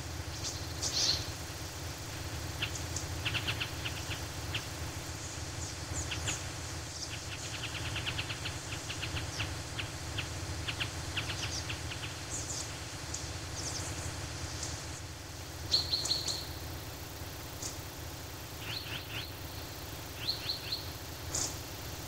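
Songbirds chirping and trilling, a mix of short high chirps and quick rapid-fire trills scattered throughout, over a steady low background rumble.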